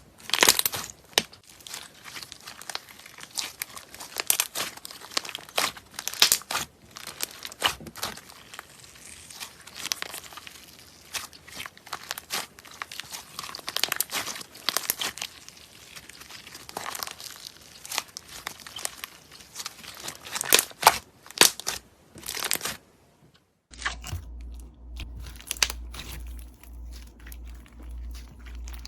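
Slime being squeezed, stretched and pressed by hand, with dense crinkly crackling and popping clicks. About 23 s in, the sound cuts out briefly, then gives way to quieter, sparser slime handling over a low, evenly pulsing hum.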